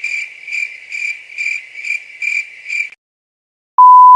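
Crickets chirping, as in the stock 'awkward silence' effect: even chirps at one high pitch, about two a second, stopping about three seconds in. Near the end a loud, steady single-tone beep starts.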